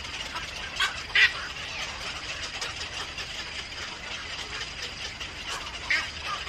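Bird calls: two short chirps about a second in and another near the end, over a steady background hiss.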